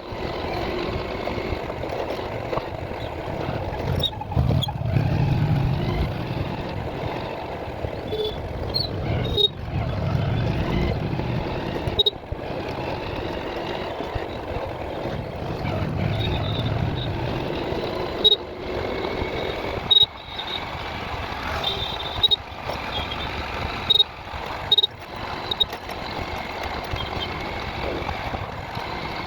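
Vehicle noise during a ride, swelling louder a few times. Short high beeps come now and then, and there are a few sharp knocks.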